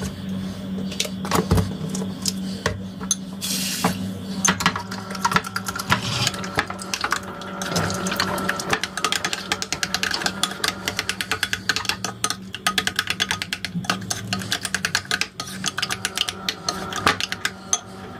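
Dishes and utensils clinking and clattering in quick succession, with a short hiss of running water about four seconds in, over a steady low hum.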